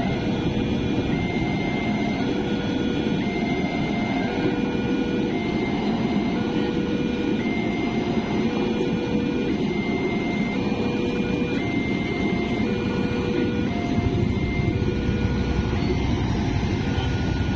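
A train rolling past with a steady heavy rumble, while a repeating two-tone electronic warning chime sounds over it.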